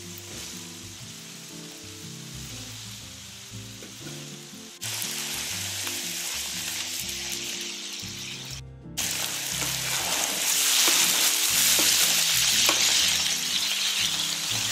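Chicken pieces sizzling as they fry in oil in a large steel paella pan, stirred and pushed around with a metal spatula and tongs. The sizzle steps up louder about five seconds in, cuts out briefly near nine seconds, then comes back louder, with short utensil scrapes against the pan.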